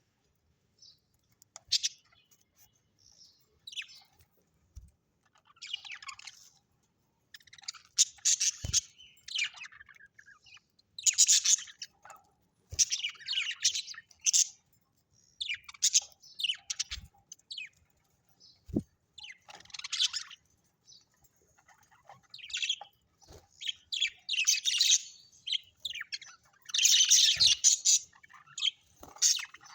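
Birds chirping in irregular clusters of short, high calls with brief pauses between them, busiest near the end.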